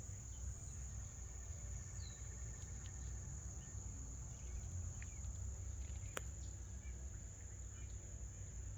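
Steady high-pitched insect trill, with scattered faint bird chirps over a low rumble and one sharp click about six seconds in.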